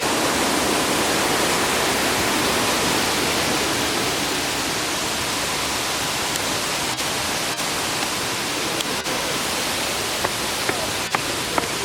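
Steady rushing of water pouring over Brandywine Falls, with a few sharp clicks in the second half.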